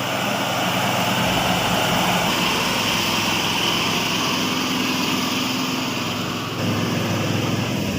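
Engine of a log-hauling truck running steadily, growing somewhat louder about six and a half seconds in.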